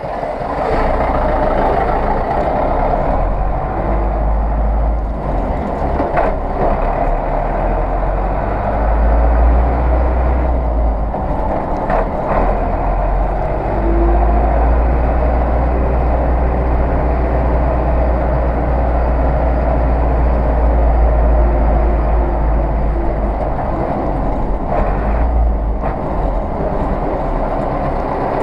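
Zetor 6911 tractor's four-cylinder diesel engine running steadily, with a few brief dips in level along the way.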